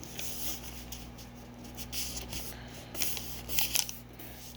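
A sheet of paper rustling and crinkling as it is handled and folded, in irregular crackles with a cluster of sharper ones near the end.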